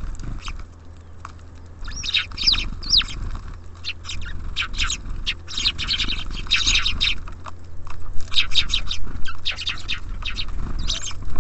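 Small songbirds at a feeder chirping: many short, quick chirps in bunches, with a few sweeping calls about two to three seconds in, over a steady low hum.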